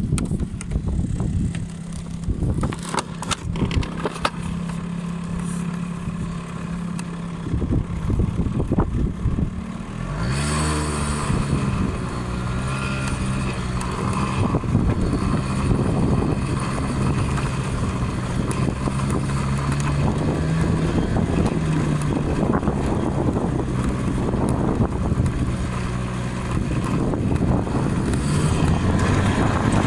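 Honda 50 cc scooter engine running steadily, then revving up with a rising pitch about ten seconds in, and running on at varying speed.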